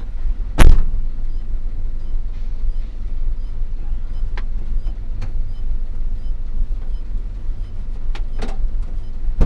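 Loaded Hino FL 260 JT truck running with a steady low rumble, a loud knock about half a second in and a few lighter knocks later.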